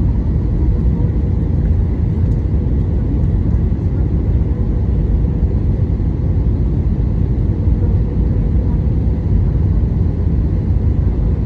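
Airliner cabin noise: a steady low rumble of the engines and the airflow, heard from inside the cabin, with a faint steady hum above it.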